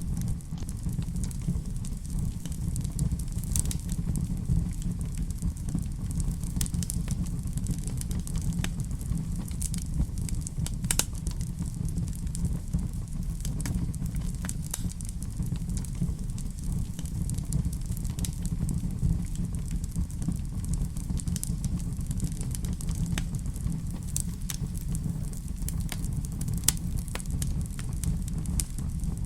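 Fireplace fire burning: a steady low rumble with irregular crackles and sharp pops scattered through it.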